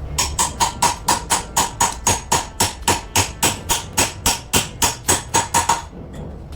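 Rapid, even hammer taps on metal, about four a second, each with a short ring, stopping suddenly near the end.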